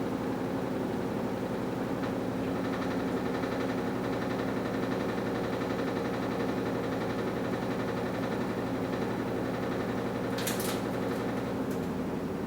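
AQUA washing machine with a direct-drive inverter motor running steadily, a hum of several held tones. A short hiss about ten and a half seconds in.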